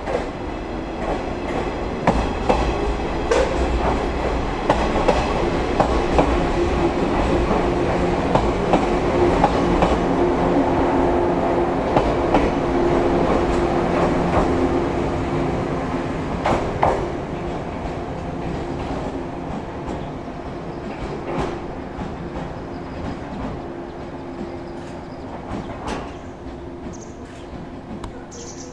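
Shinano Railway 115-series electric train running along the platform, its wheels clicking over the rail joints with a steady running hum underneath. The sound swells to its loudest about halfway through, then fades in the last third.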